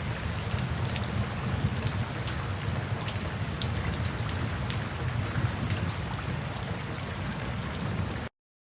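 Steady rainfall with many separate drops striking, over a low rumble. It cuts off abruptly to silence near the end.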